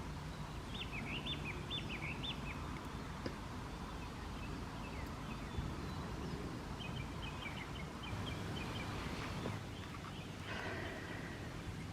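Small songbirds calling over steady outdoor background noise: a quick run of high warbling notes about a second in, then a series of short, evenly repeated high notes a little past the middle.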